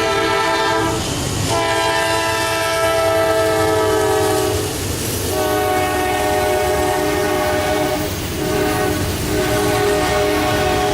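Diesel locomotive's air horn sounding a chord of several notes in long blasts, broken by short gaps about a second in, about five seconds in and about eight seconds in.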